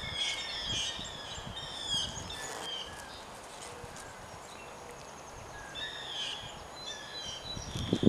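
Small birds chirping and twittering in quick high phrases, busiest early on and again near the end, with a few faint low taps underneath.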